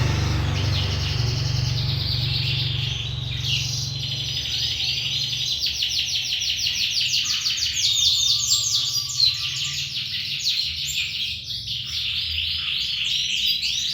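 Young domestic canary singing a long, continuous song of very rapid trills and rattling rolls. A low rumble sits under the song for the first five seconds or so, then fades.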